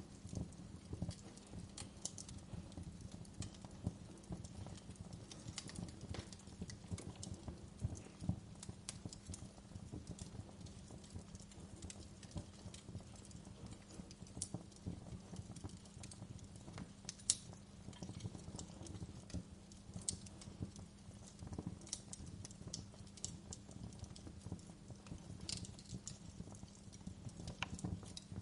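Wood fire crackling in a fireplace, with irregular small pops and snaps over a soft low rumble of burning logs and one sharper pop about two-thirds of the way through.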